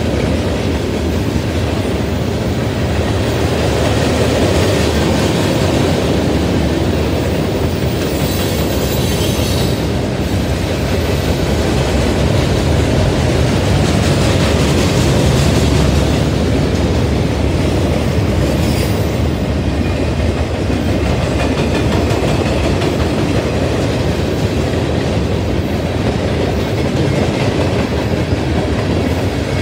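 Freight cars of a mixed freight train (covered hoppers, boxcars, tank cars) rolling past: a steady loud rumble and clatter of steel wheels on the rails. Brief high wheel squeals come through about eight to ten seconds in and again near nineteen seconds.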